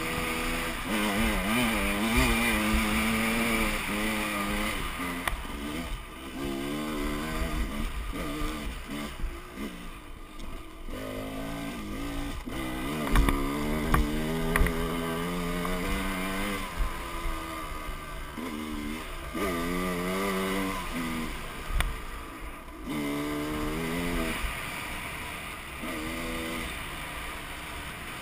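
Dirt bike engine running under throttle on a trail, its pitch rising and falling again and again as the throttle is opened and rolled off. A few sharp knocks come from the bike hitting bumps, about 13 to 15 seconds in and again near 22 seconds.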